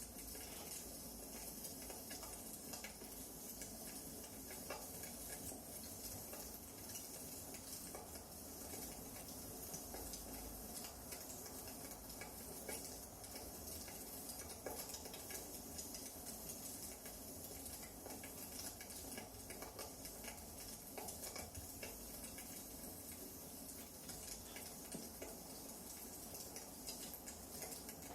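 Wood fire burning in a fireplace, crackling faintly and steadily with scattered small pops.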